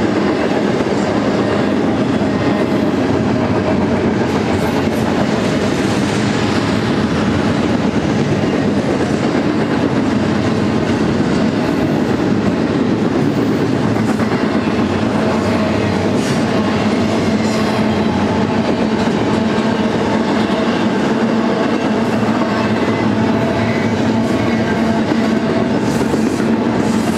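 Double-stack intermodal freight train of container-laden well cars rolling past close by: a loud, steady rumble of steel wheels on rail, with occasional clicks.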